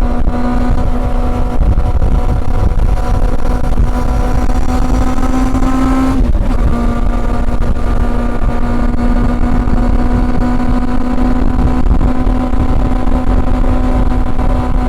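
Honda CB400 Super Four's inline-four engine pulling steadily at cruising revs, rising slightly in pitch. About six seconds in it cuts off briefly for a quick gear change, then runs on steady at a slightly lower pitch.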